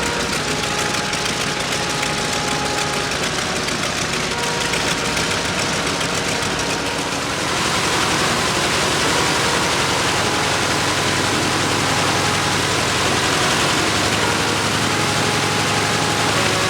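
Nakajima Sakae 14-cylinder radial aero engine of an A6M5 Zero fighter running steadily after start-up, with its propeller turning. About seven seconds in it gets a little louder with more hiss, as if run up slightly.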